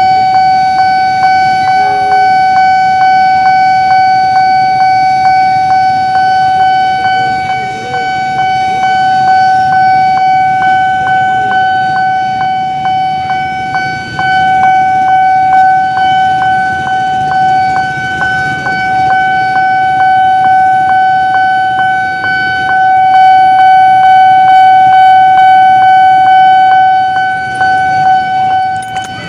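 Railway level-crossing warning alarm sounding one unbroken high-pitched tone, with regular ticks and a low rumble of rail or road traffic underneath.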